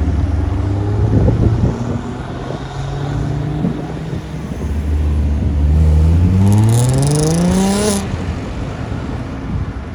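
Car engine running low and steady, then revving up as the car accelerates, its pitch climbing for about two seconds before dropping off suddenly about eight seconds in.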